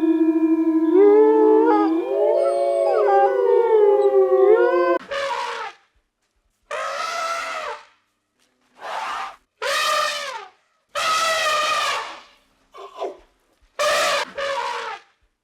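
Wolves howling: several long, held howls overlapping in chorus for about five seconds, then a run of shorter, separate howling calls about a second each with silent gaps between them.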